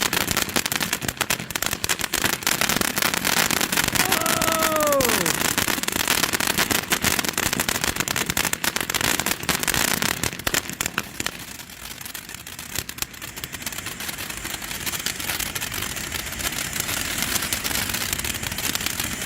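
A ground fountain firework burning: dense rapid crackling over a steady hiss. It eases for a moment about two-thirds of the way through, then keeps crackling.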